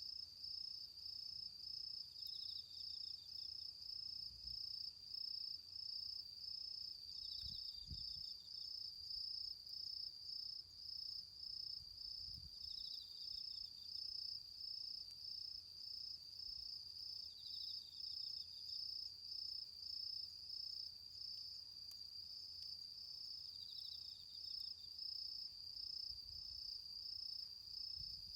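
Autumn insects calling: a steady, fast-pulsed high-pitched cricket chirping, with a second insect giving a short trill about every five seconds.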